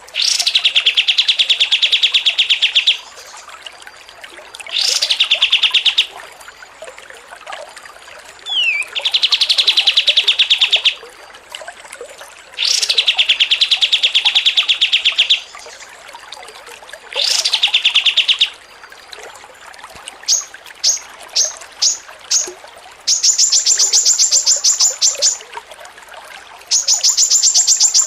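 Recorded songbird chattering in fast, rattling trills, delivered in repeated phrases of two to three seconds with short gaps between them. Near the end come a string of short, very high notes and then higher-pitched rapid trills.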